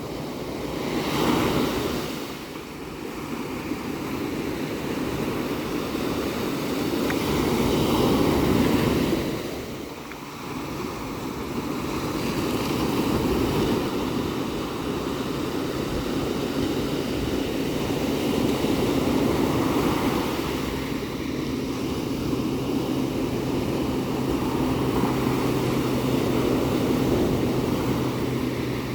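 Ocean surf, waves breaking and washing in with a swell every five or six seconds over a steady rush. A low steady hum comes in about halfway through and grows stronger near the end.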